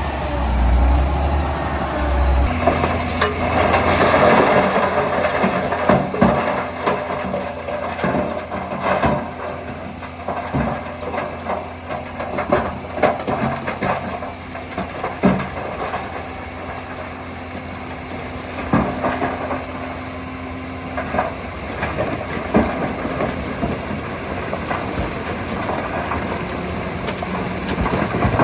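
Diesel engine of heavy earthmoving machinery running steadily, with frequent sharp knocks and clanks. A deep low rumble drops away about two and a half seconds in.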